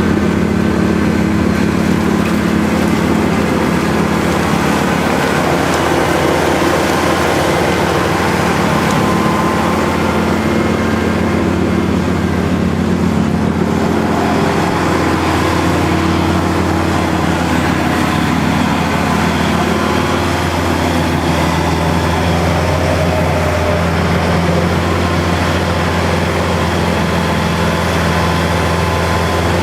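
Kubota L5740 tractor's diesel engine running steadily, with a constant low hum.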